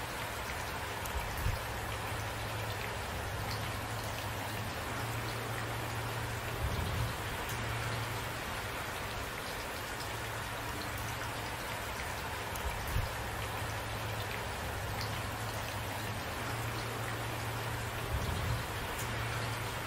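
Steady rain falling, an even hiss of drops on a surface, with a brief low thump about every five or six seconds.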